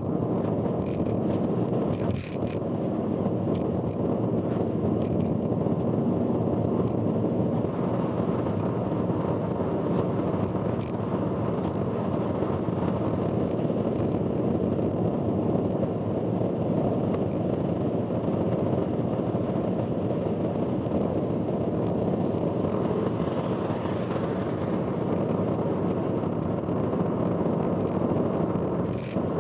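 Car travelling on an expressway, heard from inside through an in-car camera: a loud, harsh, steady rush of road and engine noise with occasional short clicks, the recording sped up fourfold.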